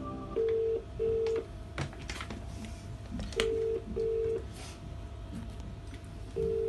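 British telephone ringback tone heard over the line: three double rings, each two short tone bursts followed by a pause of about two seconds. The ringback comes after a short beep at the start, as the call is put through from the automated menu and waits to be answered.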